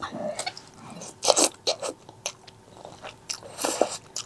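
Close-miked eating sounds: several crunchy bites with chewing between them, the loudest about a second in and again near the end.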